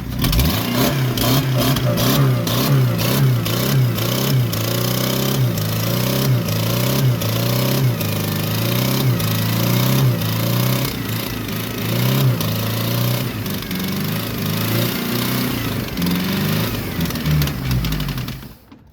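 Chevy S10 engine running with sand dumped into it, revved up and down repeatedly, then cutting off suddenly near the end as it dies. The engine is being deliberately wrecked by swallowing sand.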